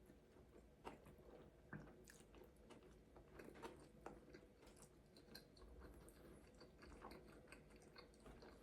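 Quiet chewing and biting: soft, irregular mouth clicks and crackles of someone eating a burrito and quesadilla close to the microphone.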